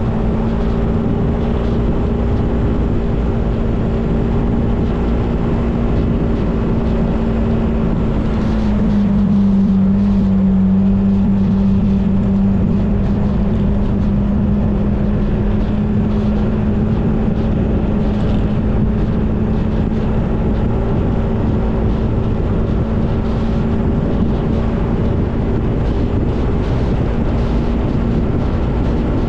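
Motorcycle engine running steadily while riding, with wind rumble on the microphone. The engine note drops a little about nine seconds in and picks back up a few seconds later.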